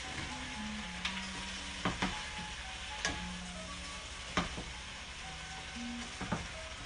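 Okra and spinach sizzling in a hot pan of oil and soy sauce while being stirred, with a steady frying hiss. The stirring utensil knocks against the pan about five times.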